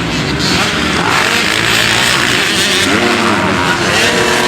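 Motocross bikes racing on the track, engines revving. Their pitch rises and falls as the riders work the throttle, over a dense wash of engine noise.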